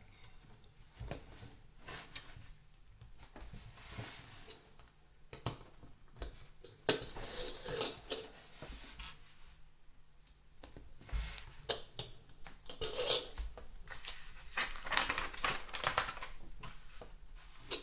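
LEGO plastic pieces from the Creator 40602 Winter Market Stall set being handled and pressed together: irregular sharp plastic clicks and small rattles, with a few short stretches of rustling as pieces are sorted through. The sharpest click comes about 7 seconds in.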